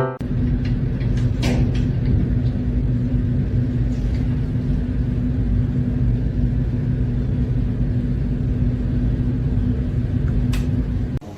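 Steady low mechanical rumble with a constant hum, like a running motor, with a few faint clicks.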